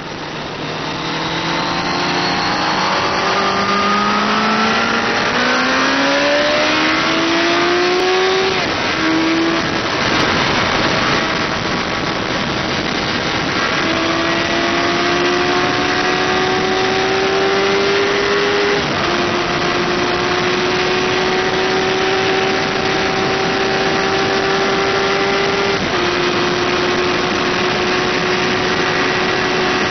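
Suzuki GSX-R 1000's inline-four engine at high revs, climbing in pitch through the gears and dropping at each of three upshifts, each climb slower than the last, over a steady rush of wind noise.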